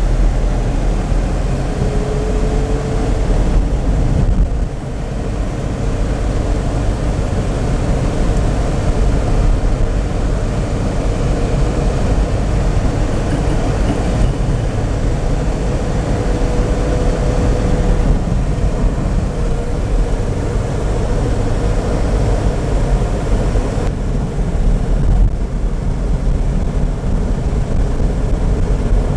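A car driving, heard from inside: a steady low rumble of engine and tyre noise, with a faint whine that comes and goes.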